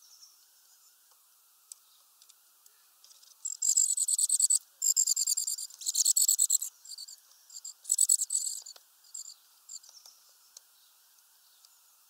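Small birds giving high-pitched, rapid stuttering calls in three bouts about a second or two long, starting about three and a half seconds in, with scattered softer chirps between.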